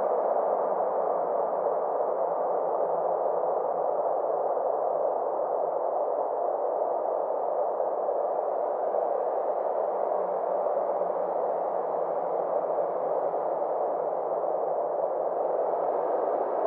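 Synthesized ambient space drone: a steady hiss-like wash centred in the mid range, with a faint low hum underneath. Its brightness slowly sinks and swells again over several seconds.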